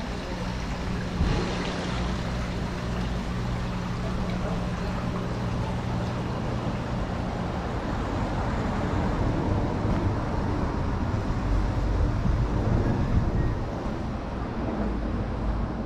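Strong wind rumbling on the microphone along a street, with a steady vehicle engine hum that fades out about halfway through.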